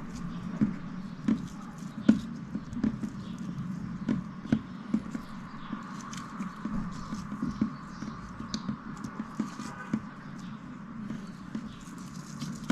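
Slime being handled and squeezed by hand, making many irregular soft sticky clicks and pops.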